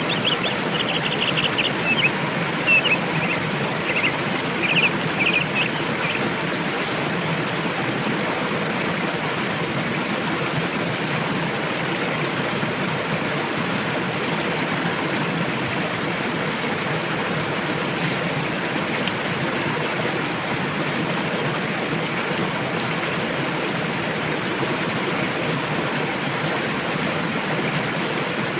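A river running fast over rocks, a steady rush of water. A small bird chirps in quick runs over it during the first few seconds.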